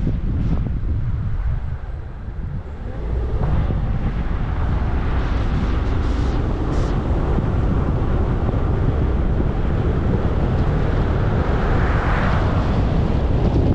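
A car driving: a steady low rumble of road and tyre noise with wind buffeting the microphone, dipping briefly about two seconds in and swelling into a louder hiss near the end.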